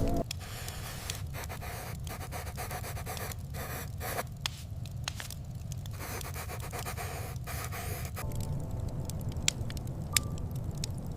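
Snowstorm ambience: a steady low wind rumble under a crackling, scraping hiss with many scattered sharp clicks.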